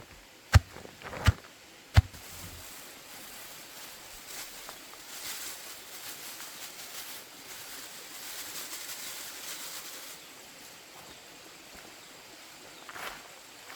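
Three sharp chopping strokes of a blade, about one every 0.7 s, ending about two seconds in, typical of chopping banana stem for chicken feed; then only a faint, even hiss.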